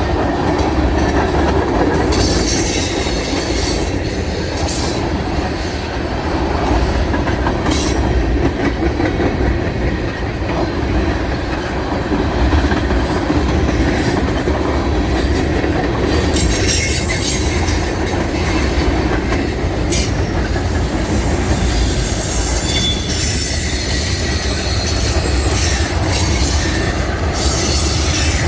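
Train rolling past on the rails: a steady rumble of wheels, with clicks from the rail joints and a few brief high-pitched wheel squeals a little past the middle.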